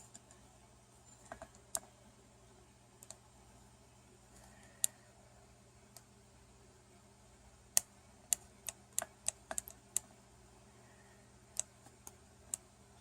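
Irregular sharp clicks and taps, a few at a time, with a quick run of about eight clicks in the middle, over a faint steady hum.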